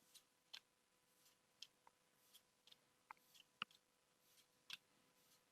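Faint, irregular light clicks and snaps of trading cards being flipped through one by one, the sharpest about three and a half seconds in.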